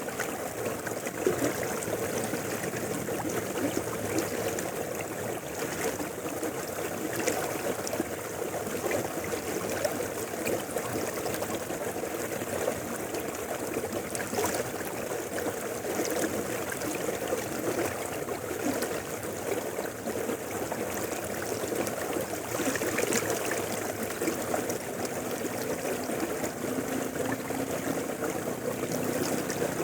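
A river running over rocks: a steady rush of flowing water with small splashes and gurgles.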